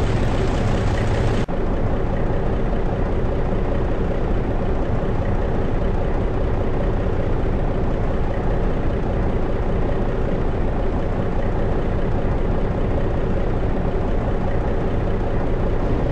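Scania T112 truck's diesel engine idling steadily, with a brief break about a second and a half in.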